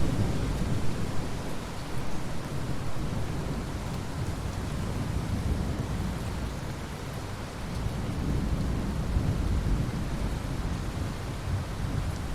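Steady rain with rolling thunder. The rumble swells right at the start, eases through the middle and builds again from about eight seconds in.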